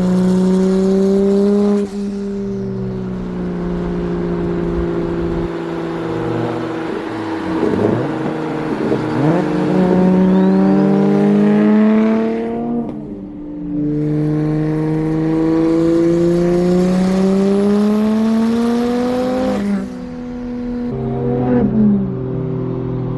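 Single-turbo BMW N54 straight-six in a 335i accelerating under load, its note climbing steadily in pitch over long pulls. The pitch and level drop sharply about twelve seconds in and again near twenty seconds, then run lower toward the end.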